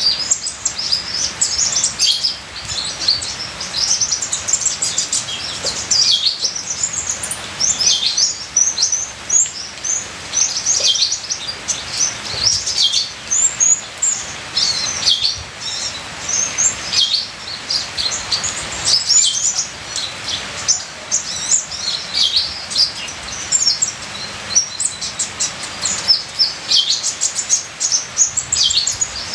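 Kolibri ninja sunbird singing a long, unbroken stream of rapid, high, twittering chirps and trills, over a faint hiss of trickling water.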